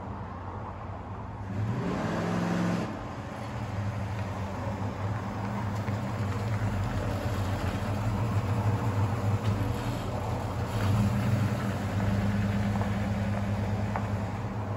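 Big-block 440 V8 of a 1974 Plymouth Duster running, with a short rev about two seconds in that cuts off sharply. After it the engine keeps a steady low note, which swells and eases through the rest.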